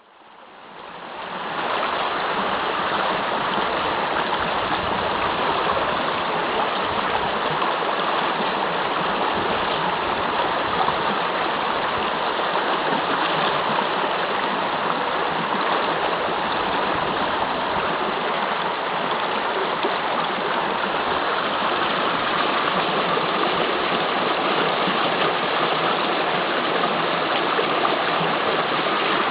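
River water rushing over the lip of a waterfall, heard from just above it: a steady, loud rush that fades in over the first second or two and then holds even.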